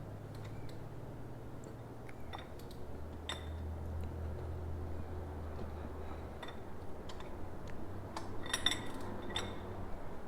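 Scattered light metallic clinks and taps of hand tools and engine parts being handled, with a quick cluster of clinks near the end, over a low steady hum.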